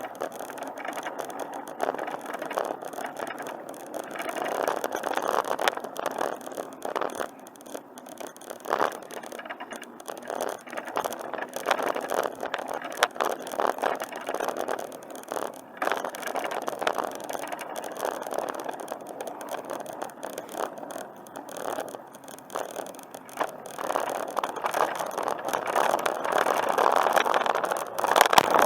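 Bicycle riding along a trail: a steady rolling rattle with frequent sharp clicks and knocks, growing louder over the last few seconds.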